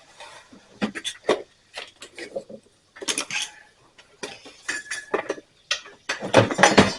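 Hand tools and metal parts clinking and clicking against the mower's engine in a scattered run of sharp taps. They come thicker and louder near the end.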